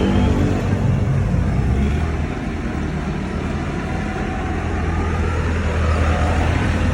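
Tractor engines of a passing parade running with a steady low rumble, over a wash of road noise.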